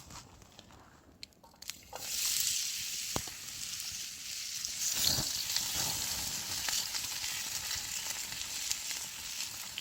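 Food frying in hot oil in a pan: a few knocks, then a steady sizzle that starts suddenly about two seconds in, with scattered pops and crackles.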